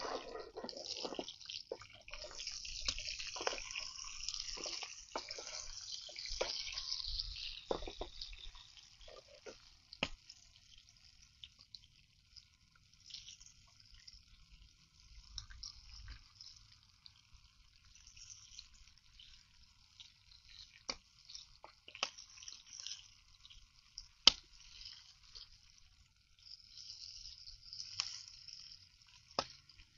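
Pork and onions sizzling in a frying pan, loudest in the first several seconds and then settling to a softer crackle. Clicks and scrapes of a wooden spoon stirring come at the start, with a few single sharp knocks later, the loudest about two-thirds through.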